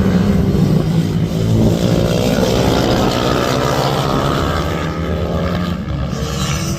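Several small minibike engines running hard, their pitch climbing as they rev up through the gears.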